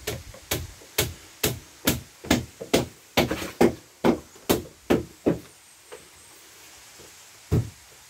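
A run of about a dozen evenly spaced knocks, a bit more than two a second, that stops about five seconds in, followed by one more knock near the end.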